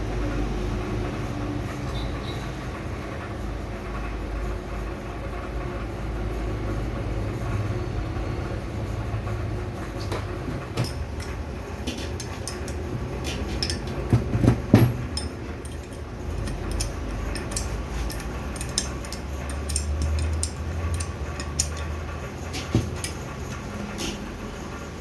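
Metal clinks and taps of tools on turbocharger parts over a steady low machine hum, starting about ten seconds in, with a louder clack about halfway through.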